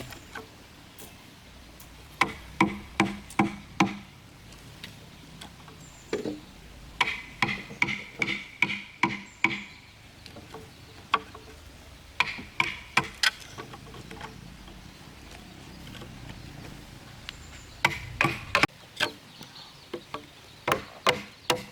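Hammer strikes on wood in bursts of several blows, about two to three a second, with short pauses between the bursts. A faint low hum underneath stops about three quarters of the way through.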